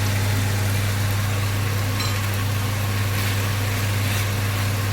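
Steady low motor hum, with chicken, onions and bell peppers sizzling in oil in a frying pan beneath it.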